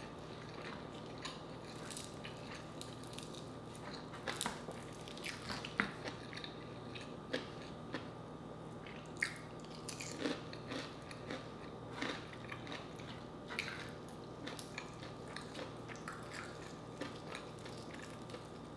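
Close-up chewing and biting of crispy fried chicken, with irregular crunches and clicks scattered through, over a faint steady hum.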